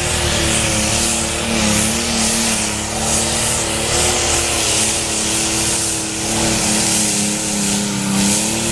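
Competition pulling tractor's engine running flat out at high, nearly steady revs, with a loud hiss over it, until it changes abruptly at the very end.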